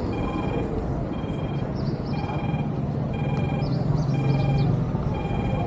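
An electronic beep, each about half a second long, repeating about once a second over a steady low rumble of traffic noise, with a few short high chirps.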